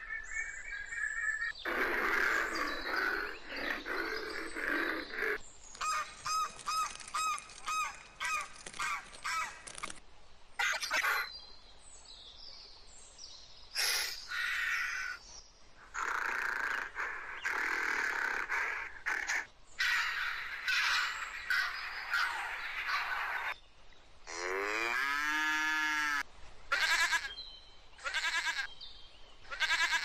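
A string of separate animal calls with short gaps between them. Ducks quack and call at first. Later come other animal calls, among them one long call that falls and then rises in pitch near the end.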